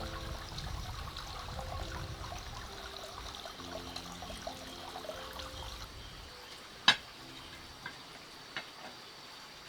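Water running and trickling, under soft background music that fades out about six seconds in; one sharp click or knock about seven seconds in.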